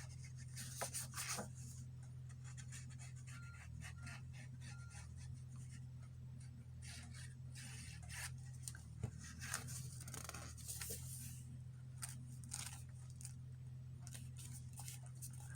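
Paper rustling and being rubbed by hand in short, irregular strokes as a glued paper piece is pressed down onto a journal page, over a steady low hum.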